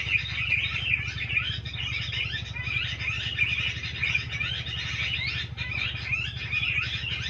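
A dense chorus of many small birds chirping and trilling over one another without pause, with a steady low hum underneath.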